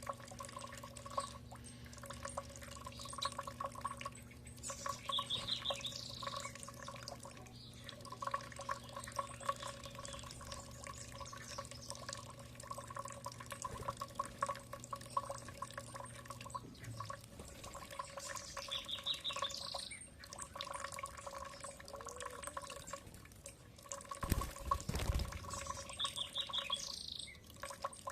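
A songbird repeating a short, quick trilled phrase three times, about ten seconds apart, over a steady background of dripping, trickling water. A low hum under it stops about two-thirds of the way through.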